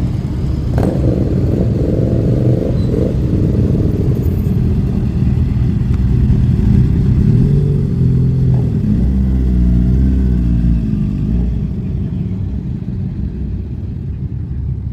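Several motorcycle engines running and revving at low speed, their exhaust notes overlapping and rising and falling in pitch as the bikes ride in. A sharp click about a second in, and the sound eases off over the last few seconds.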